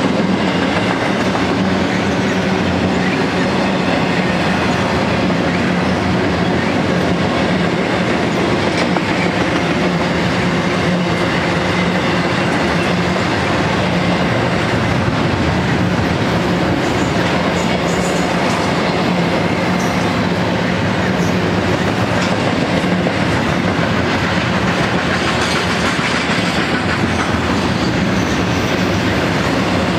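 Double-stack intermodal freight train rolling past, its well cars loaded with containers and trailers: a steady rumble of steel wheels on the rails.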